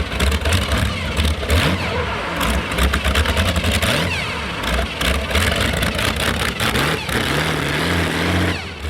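Modified pulling tractor's engine running loud with a crackling exhaust, revving up twice, with the pitch climbing about halfway through and again near the end.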